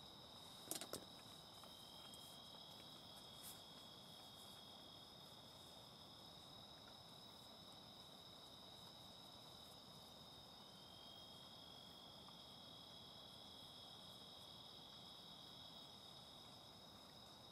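Faint steady chorus of night insects, crickets or similar, trilling in two high tones, with a few sharp clicks about a second in and another a couple of seconds later.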